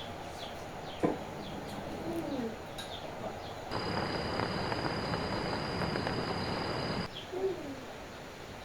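Small birds chirping in short falling calls, with a lower sliding call twice and a sharp click about a second in. In the middle comes about three seconds of steady hiss with a thin high whine.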